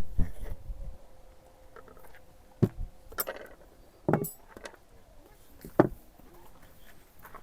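A few separate knocks and clinks of dishes and glassware being handled, three sharper knocks spaced a second or more apart.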